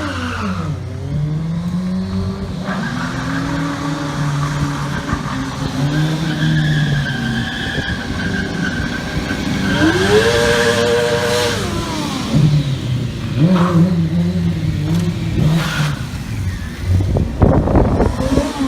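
Stunt motorcycle engine revving up and down over and over, with a high rev held for about a second and a half near the middle, alongside tyre squeal.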